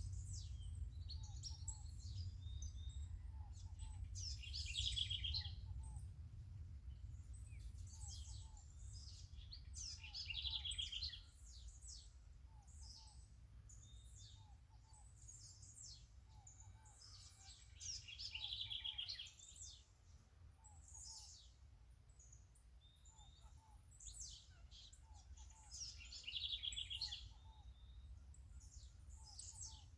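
Several birds chirping and singing at dawn, one of them repeating a short bright song phrase about every eight seconds, four times. Under them is a faint low rumble.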